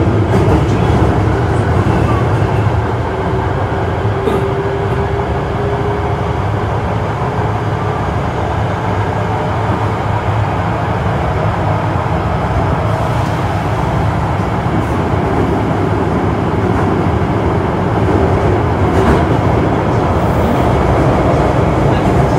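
Osaka Metro 66 series train with Toshiba IGBT VVVF traction running along the line, heard from inside the car: a steady, loud rumble of wheels on rail. Over it, a thin motor whine rises slowly in pitch through the first eight seconds or so as the train picks up speed, and a fainter whine climbs again later.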